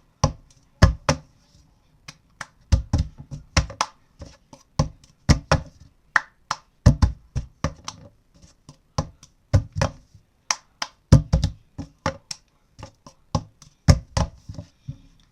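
Hand claps alternating with a plastic cup knocked, tapped and set down on a book, in a repeating cup-game rhythm of claps, taps and cup hits that comes round every couple of seconds.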